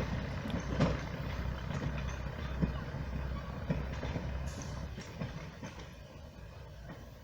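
A train running on the line, with a steady low rumble and a few sharp clicks, fading away over the last couple of seconds.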